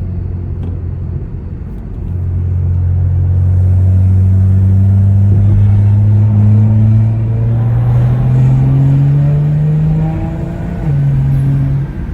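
BMW N55 turbocharged inline-six with a straight-piped exhaust, pulling hard under acceleration: the engine note climbs steadily for several seconds, drops in pitch at an upshift near the end, then eases off.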